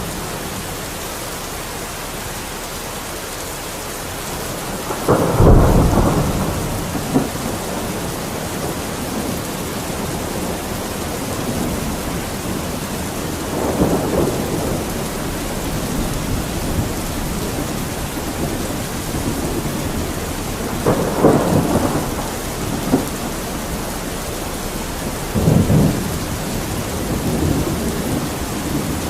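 Steady rain falling, an even hiss, with four short, deeper and louder swells: the loudest about five seconds in, then others about fourteen, twenty-one and twenty-five seconds in.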